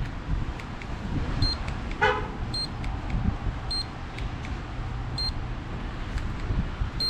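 Street sounds in a snowstorm: a steady low vehicle rumble, a short horn toot about two seconds in, and a short high-pitched electronic beep repeating roughly once a second.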